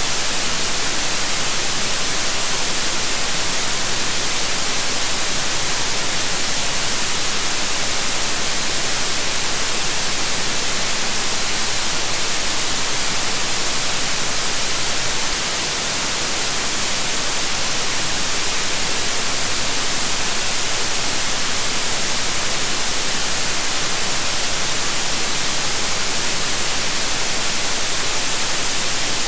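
Steady white noise: an even, bright hiss with no tones or rhythm. It dips slightly in level about halfway through and swells back over a couple of seconds.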